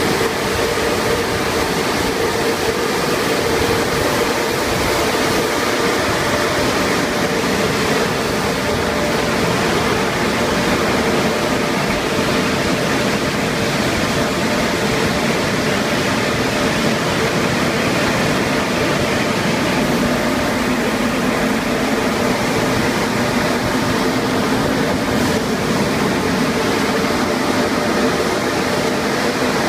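Automatic conveyor car wash tunnel running: a steady, loud rush of machinery with a constant hum underneath.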